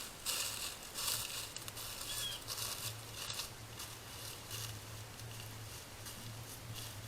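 Wild turkeys feeding on corn, making repeated short rustling and scratching noises that are busiest in the first few seconds and then grow fainter. A steady low hum runs underneath, and a faint short chirp sounds about two seconds in.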